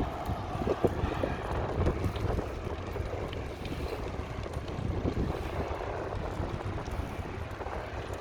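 Wind buffeting the microphone while riding a bicycle: a steady low rushing rumble with irregular gusts.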